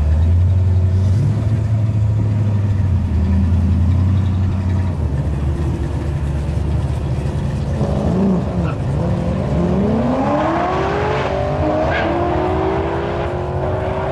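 A Corvette and a Camaro drag racing: engines idling with a low rumble at the line, then launching about eight seconds in and revving hard, their notes climbing in pitch through several gear changes as they pull away.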